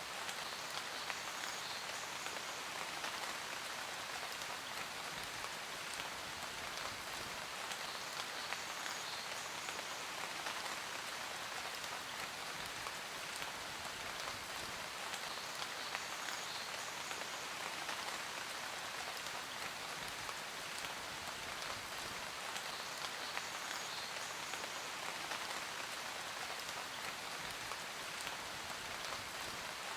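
Steady rain falling on a surface, an even hiss thick with small drop ticks.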